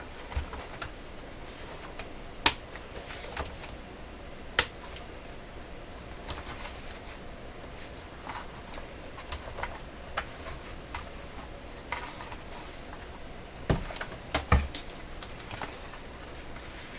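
Handling noise of a portable transistor radio being worked out of its leather carrying case: scattered light clicks and taps, with two sharp knocks a few seconds in and a quick cluster of knocks later on.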